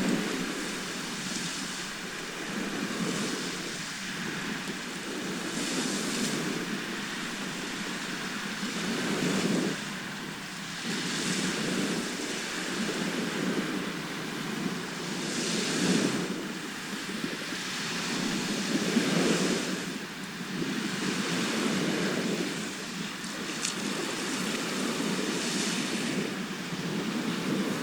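Sea waves breaking and washing up a shore, the surf swelling and falling away every few seconds.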